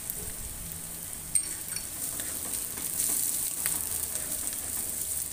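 Sliced onions and green chillies sizzling in hot oil in a kadai, stirred with a wooden spatula, a steady frying hiss with scattered small ticks. There is one sharp knock about a second and a half in.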